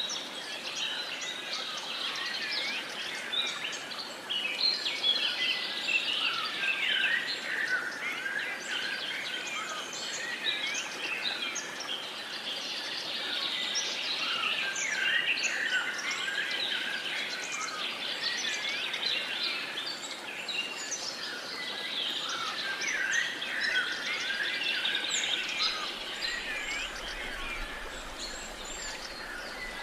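Many birds singing and chirping at once in a dawn-chorus-like mix of short, overlapping calls over a faint steady hiss.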